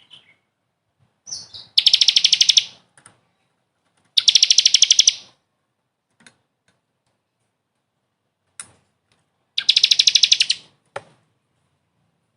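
A songbird singing three loud, rapid buzzy trills, each about a second long, with a few short single chips in the gaps between them.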